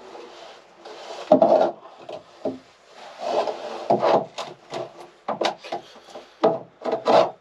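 A wooden interior fitting being pried and wrenched at by hand: irregular knocks, scrapes and rubbing of wood, with several sharp knocks in the second half.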